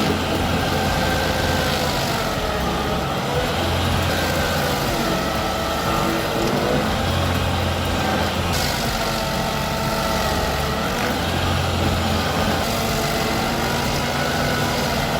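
Heavy machine engine running steadily, its low hum rising and falling slightly, with a wavering whine above it.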